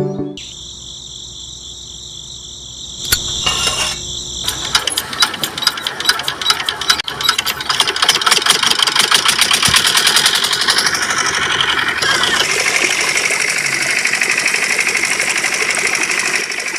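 Small motor of a DIY mini tractor running. It starts as a steady high whine, then turns into a fast, even rattle that grows louder about halfway through.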